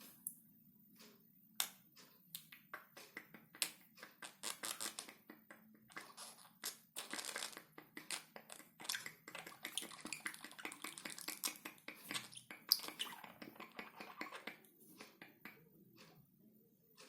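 Budgerigars chattering: a quick run of soft clicks and short scratchy chirps, busiest in the middle and thinning out near the end.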